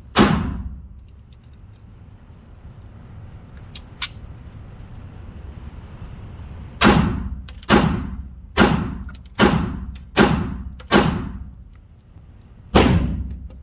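Eight gunshots, each followed by a short echo: one right at the start, then a steady string of six about a second apart, and a last one after a short pause.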